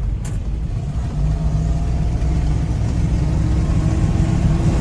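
Ford F800 grain truck's engine running steadily on the road, a low rumble that gets a little louder about a second in.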